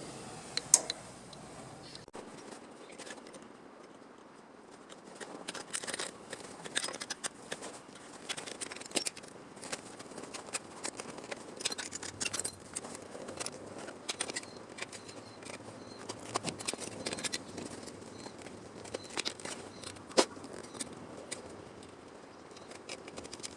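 Hand work on car-body sheet metal: irregular scraping, with sharp clicks and ticks at uneven intervals and no power tool running.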